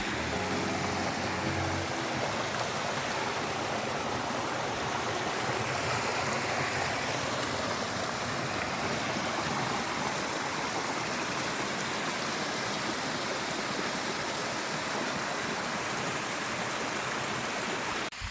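Mountain stream running, a steady rushing of water.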